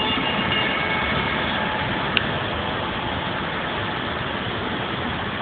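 Steady rumbling noise of a passing freight train, with a faint wheel squeal fading out in the first second or so and a short high squeak about two seconds in.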